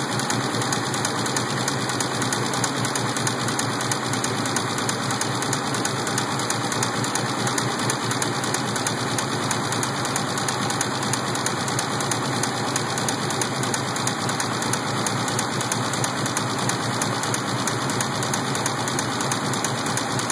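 Engine idling steadily with a fast, regular knocking running through it, which the owner suspects may be rod knock.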